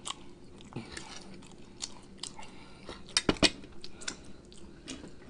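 A person chewing food with a mouth close to the microphone: wet mouth clicks and lip smacks, with a few sharp smacks a little after three seconds in.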